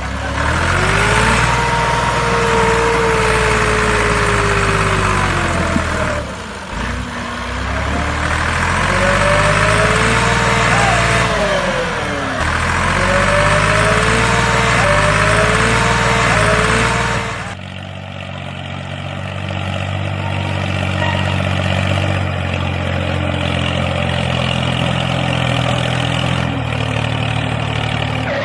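Vehicle engine running, its pitch rising and falling in slow sweeps, then settling a little over halfway through into a steadier, lower running sound.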